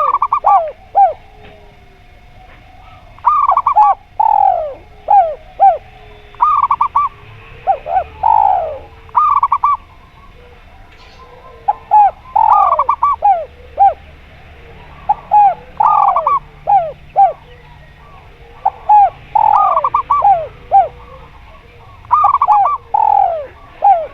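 Zebra doves and spotted doves cooing. Their phrases of short, arching coo notes, some with a longer falling coo, repeat every second or two and sometimes overlap.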